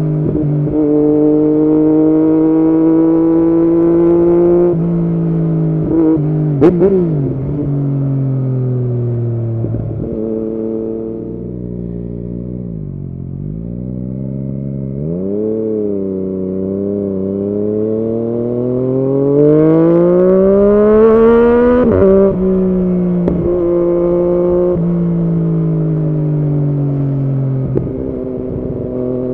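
Yamaha MT-09's inline-three engine through an Arrow aftermarket exhaust, ridden through the gears. It pulls up in pitch with sudden drops at each gear change and eases off to a low pitch around the middle. It then makes one long rising pull that ends in another upshift.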